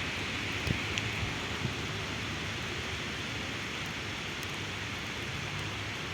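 Heavy rain falling steadily, an even hiss with a few sharp drop ticks about a second in.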